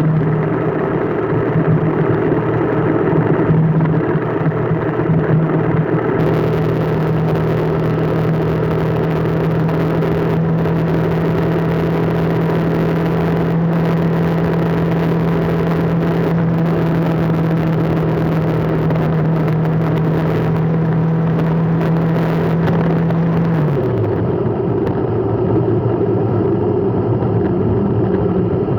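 Motor vehicle engine running at a steady speed over a constant hiss of road noise. About three-quarters of the way through, the engine note drops in pitch as the throttle comes off.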